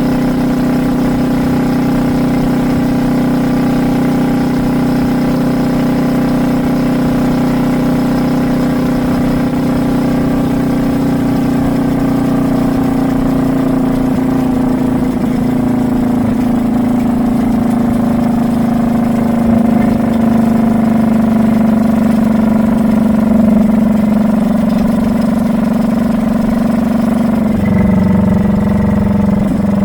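Kawasaki Vulcan S 650 parallel-twin engine running through a Truedual Valero dual exhaust at a steady highway cruise. The exhaust note holds a steady pitch that sags slightly partway through, with a brief change in tone near the end.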